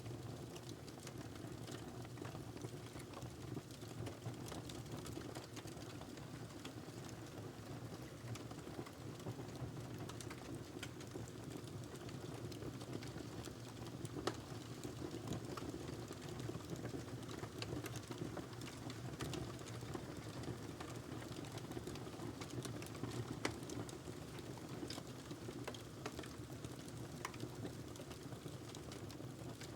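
Wood fire burning in a fireplace: a steady low sound of the flames with frequent small crackles and pops. Louder pops come about 14 seconds in and again about 23 seconds in.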